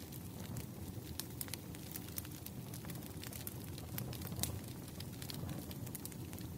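Wood fire crackling: many scattered sharp pops and snaps, irregularly spaced, over a steady low rumble.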